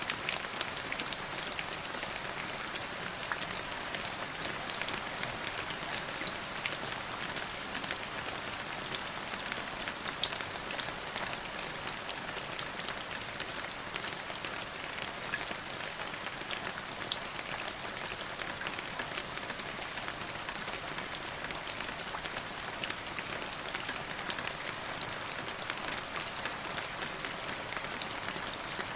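Steady rain falling and pattering on a surface, a dense hiss of drops with scattered sharper drip ticks, one a little louder about 17 seconds in.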